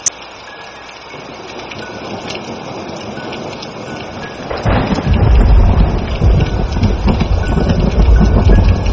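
Steady rain that grows louder, then a heavy roll of thunder breaking in just past halfway and rumbling low and loud until the end. A single sharp click sounds at the very start.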